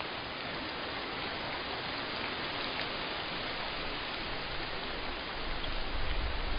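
Steady rain falling, an even hiss with faint scattered drop ticks. A deep low rumble swells in near the end.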